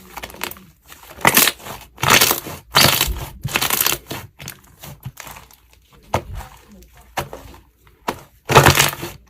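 Slime squeezed and pressed by hand, giving a run of crackling, crunching bursts, with a loud one near the end.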